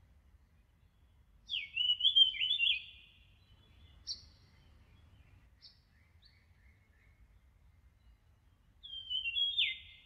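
A songbird singing two short phrases of quick, stepped falling notes, about a second and a half in and again near the end, with a single short chirp in between.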